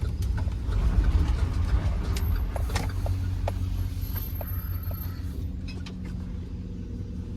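Steady low rumble of a car heard from inside the cabin, with a few faint clicks and rattles.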